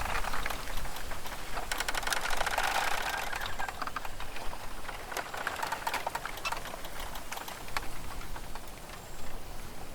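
Forest ambience: a soft rustling hiss with scattered dry ticks, and a fast clicking rattle for a couple of seconds about two seconds in.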